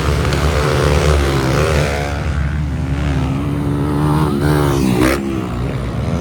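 Motocross bike engines revving, their pitch rising and falling with throttle and gear changes, with a short sharp crack about five seconds in.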